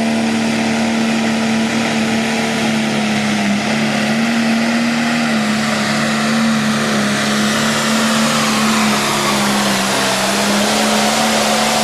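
Turbocharged diesel engine of a pro stock pulling tractor running flat out under load down the track, a loud, steady engine note that wavers slightly in pitch, with a high turbo whistle over it.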